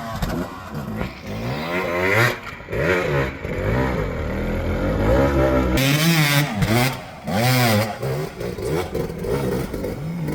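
Hard enduro dirt bike engine revving in repeated short throttle bursts, its pitch rising and falling again and again, the way a rider works the clutch and throttle up a rocky obstacle.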